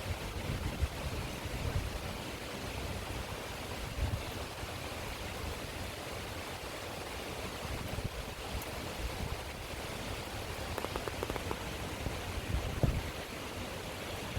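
Steady downpour of rain hissing evenly, with a few brief low rumbles, the strongest near the end.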